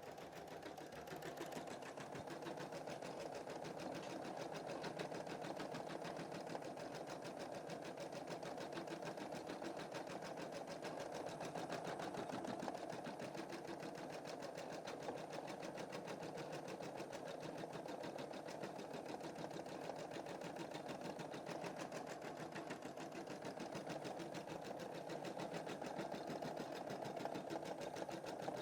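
Computerised embroidery machine stitching a design, a fast, even run of needle strokes. It picks up in the first couple of seconds, then runs steadily.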